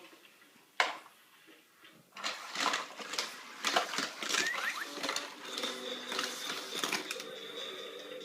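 Plastic toy race track clicking and rattling: one sharp click, then a fast run of plastic clatter from little cars on the track. Near the end an electronic tune from the toy begins, with a steady high beep.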